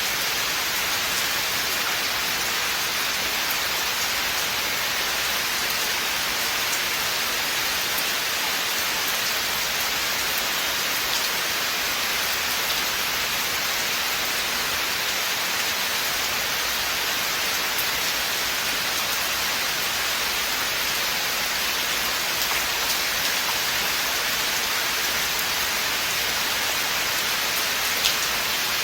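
Steady rain falling in a forest: a dense, even hiss of rain with the odd single drop ticking out, and one sharper drop near the end.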